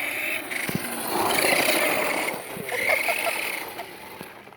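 A toy truck's small motor whining in spurts around a high pitch, with faint voices in the middle.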